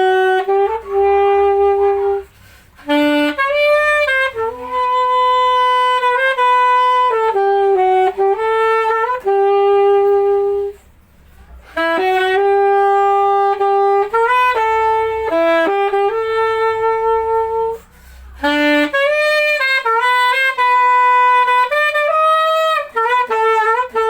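Chateau VCH-A920 MZ saxophone playing a slow melody of held notes and short runs, in phrases separated by brief breath pauses, played dry without added effects.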